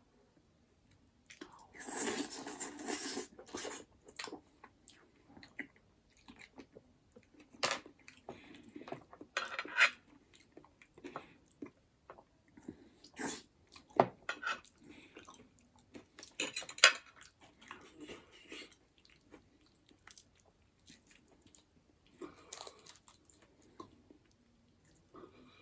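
Close-up eating sounds of buffalo bone marrow and noodles: irregular chewing and crunching, with the clink of cutlery on dishes. A louder, longer burst of eating noise comes about two seconds in, and sharp clicks follow at intervals.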